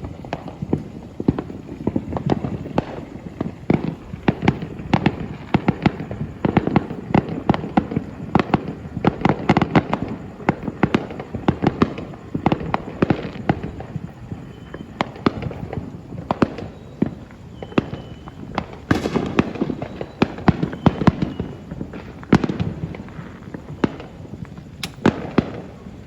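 New Year fireworks going off in quick succession, a near-continuous run of sharp bangs and crackles with a few short whistles in the second half.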